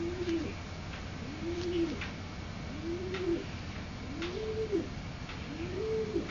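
Low cooing calls repeated at a steady pace, about one every second and a half, each note rising and then falling in pitch.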